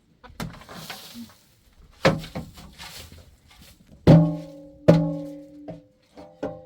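Several knocks on a hollow object. The two loudest strikes come about four and five seconds in and ring on briefly with a low tone, followed by a few lighter taps near the end.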